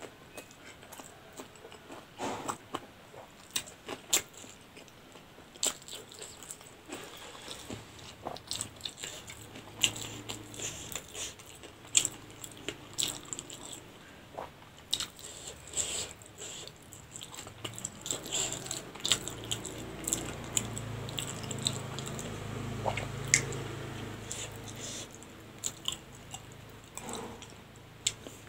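Close-miked chewing of spicy noodles: irregular mouth clicks and smacks.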